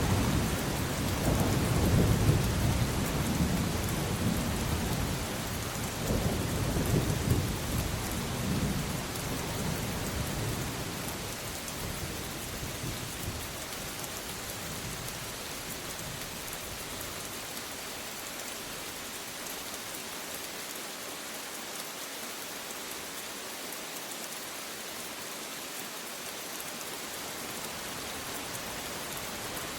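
Steady rain with thunder rumbling for roughly the first ten seconds, then fading out to leave only the even hiss of rain.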